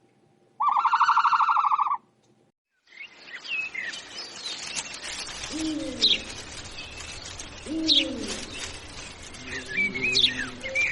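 A single loud, steady, buzzy animal call lasting just over a second. After a short pause, birds chirp and whistle over a busy background, with several low swooping coo-like calls.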